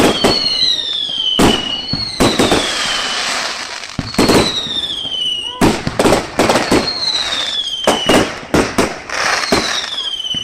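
A fireworks display: repeated sharp bangs, some in quick clusters, with about five whistles that each slide down in pitch over a second or so.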